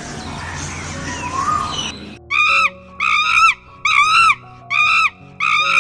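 An animal or bird call repeated five times, about one a second. Each call is a short, high cry that arches up and then falls. Before the calls is a noisy stretch with one short rising call.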